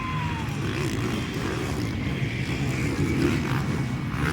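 Motocross dirt bike engines running and revving around the track, a steady mechanical din with a brief rising and falling engine note near the start.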